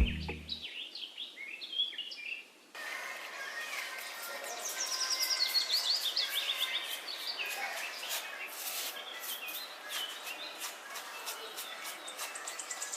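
Birds chirping and calling, with several overlapping songs made of quick repeated chirps and short descending runs of notes. The bird sound changes abruptly just under three seconds in, as if from one recording to another.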